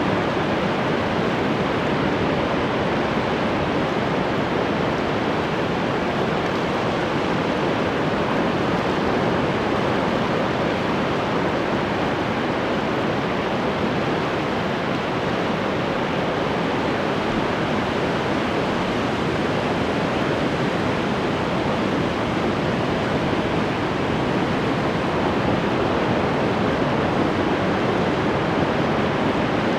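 Ocean surf: a steady wash of breaking waves, an even rushing noise without distinct swells or crashes.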